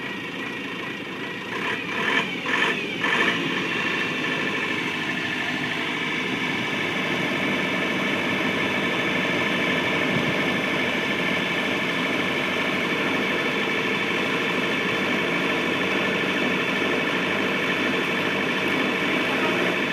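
Engine running steadily, with a few short knocks about two seconds in.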